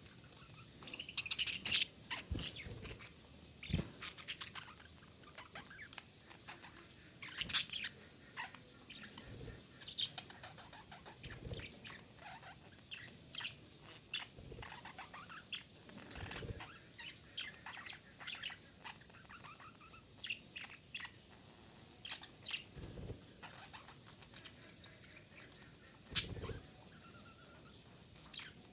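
Female budgerigar chattering in scattered short chirps and clicks, with a sharp click about 26 seconds in as the loudest sound.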